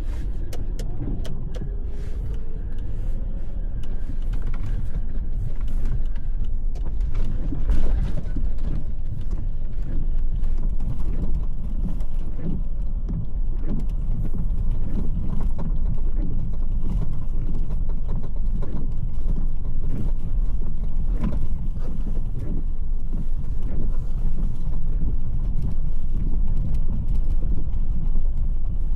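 Lexus 4x4 driving along a rough trail: a steady low engine and road rumble with frequent rattles, knocks and creaks from the body and suspension. The engine rises in pitch over the first few seconds as it pulls away.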